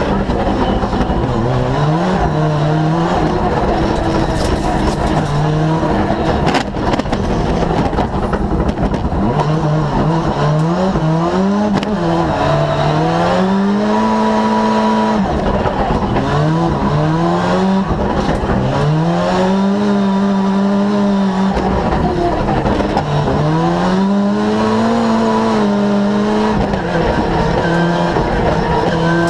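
Ford Sierra Cosworth rally car's turbocharged four-cylinder engine driven hard, the revs climbing and dropping over and over with gear changes and lifts. In the middle and later on the revs are held high for a second or two at a time.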